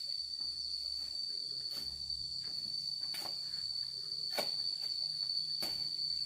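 Crickets trilling: one steady, unbroken high-pitched tone, with four faint clicks spread through it.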